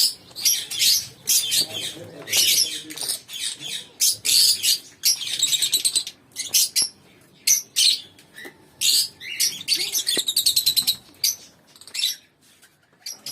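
Cockatiels and lovebirds chirping and chattering together: many shrill calls in quick succession, some trilled, easing off near the end.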